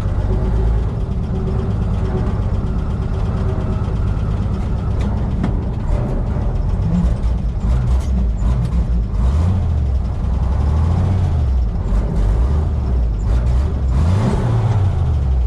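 Heavy truck engine running, revving up and down several times, with a sharp rev near the end.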